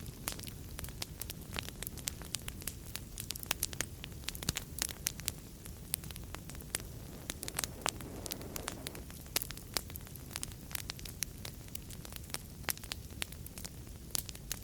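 Wood fire in a fireplace crackling: frequent sharp pops and snaps over a low, steady rush of flame.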